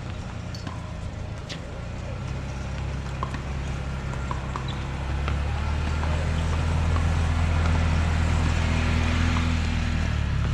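A low, steady motor hum that grows louder about halfway through, with scattered faint clicks over it.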